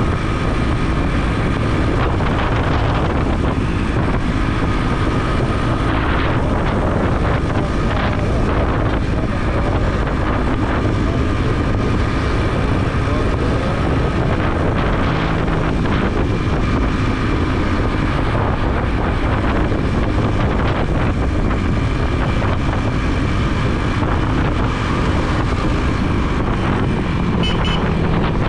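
Motorbike engine running while riding, with wind rushing over the helmet-mounted camera's microphone. Steady throughout.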